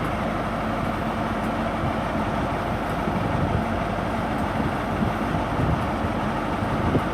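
Class 43 HST diesel power cars idling at the platform, a steady rumble and hum with station ambience and no distinct events.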